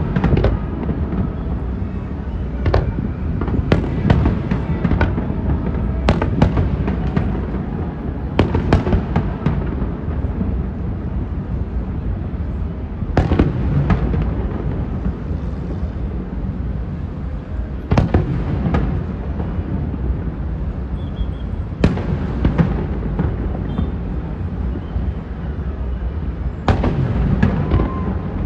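Fireworks bursting: sharp bangs come in clusters every few seconds over a continuous low rumble of further explosions.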